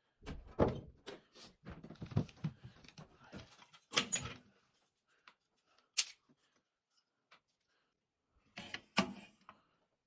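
A run of knocks and thuds, followed by a few sharp clicks spaced a couple of seconds apart.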